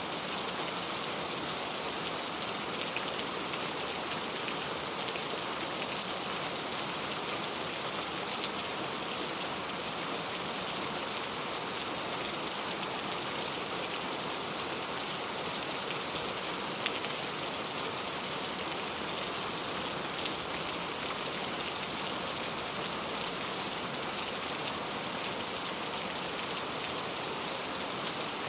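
Steady rainfall: an even hiss of rain with scattered individual drops ticking on a hard surface.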